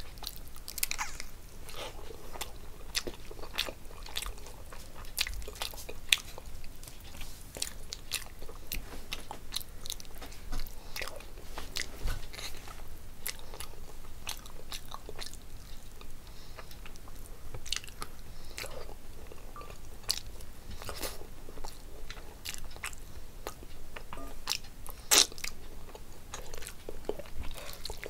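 Close-miked eating: a person biting and chewing pieces of whole fish curry taken by hand, with many sharp wet mouth clicks and smacks.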